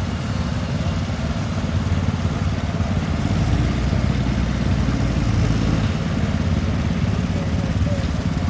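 Tractor engine running hard at a tractor pull. It grows louder for a few seconds in the middle, then eases off a little.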